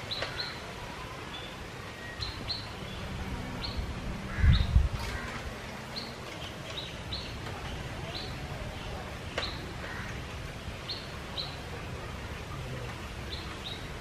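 Birds chirping: short, high chirps repeated at irregular intervals over a steady low rumble. A brief, louder low rumble comes about four and a half seconds in.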